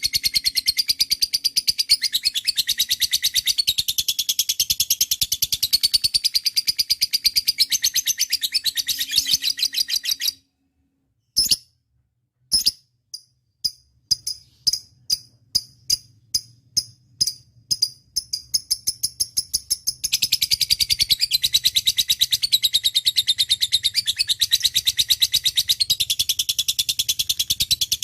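Lovebird giving its long, rapid chattering trill (ngekek). The trill breaks off about a third of the way through, leaving a brief silence and a couple of clicks. A string of single chirps at about two to three a second follows, and the rapid trill resumes about two-thirds of the way in.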